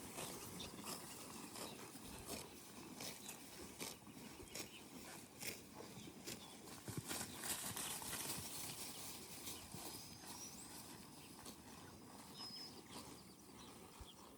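Cattle grazing and moving about in a pasture: faint, irregular crunches, rustles and steps.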